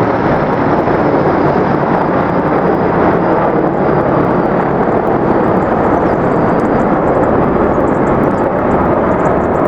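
Military helicopters flying overhead: a loud, steady rush of engine and rotor noise.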